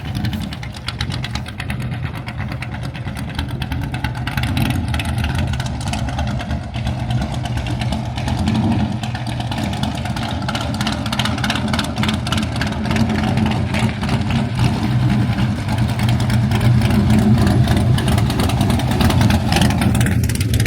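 Car engine running steadily, growing gradually louder.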